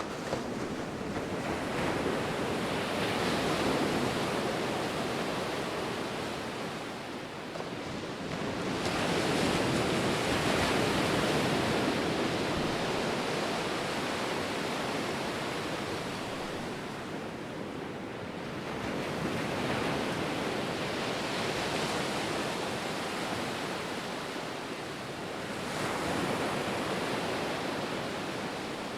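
Ocean waves breaking and washing up the shore, the surf rising and falling in four swells about every six to ten seconds.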